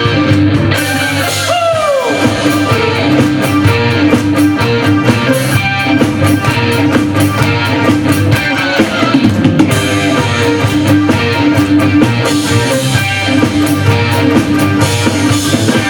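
Live rock band playing an instrumental intro on guitar and drum kit, with a falling pitch glide about two seconds in.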